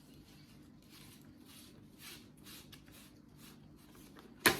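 Parts of a portable air conditioner's installation kit being handled: light rustling and scraping, with one sharp knock near the end.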